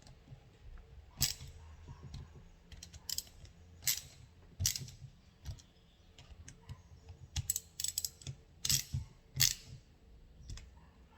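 Scattered sharp clicks and knocks of tools and metal parts being handled while a Chevrolet starter motor is put back together, with about a dozen irregular strikes and quiet gaps between them.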